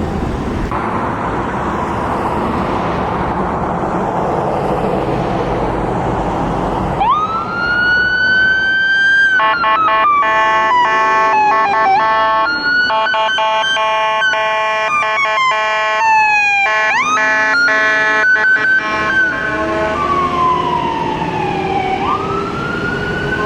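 Road and engine noise at first. About seven seconds in, a fire engine's siren rises into a wail. From about nine to nineteen seconds it is broken up by many short, repeated blasts of an electronic horn. The siren then sweeps down and rises again near the end.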